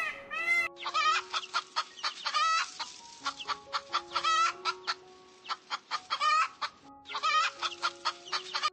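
Domestic hens clucking in a busy run of short calls, over soft background music of held notes. In the first moment a peacock's call cuts off abruptly.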